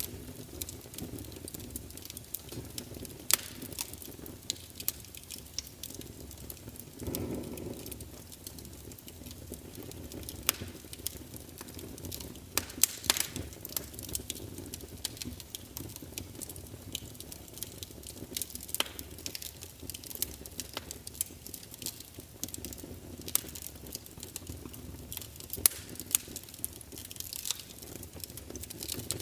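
Wood fire crackling in a fireplace: irregular sharp pops and snaps over a low steady rush, with a brief louder swell of the rush about seven seconds in.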